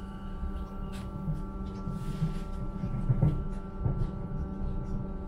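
Electric suburban train heard from inside the carriage while running: a low rumble from the wheels and track under a steady hum of several fixed tones, with a few light knocks from the rails.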